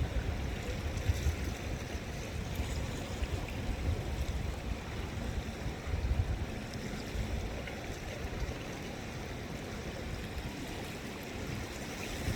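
Seawater washing and lapping along the shore, with wind rumbling on the microphone in irregular gusts.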